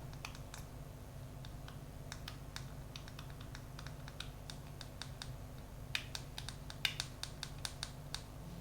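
Light clicks and taps from hands handling a smartphone gimbal, scattered at first and coming quicker in a cluster near the end, over a steady low hum.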